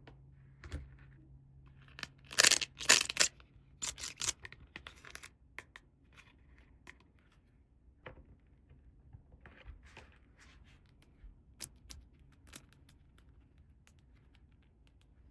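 Toy packaging tearing in a few short loud rips a couple of seconds in, then scattered light clicks and taps of small plastic toy pieces being handled.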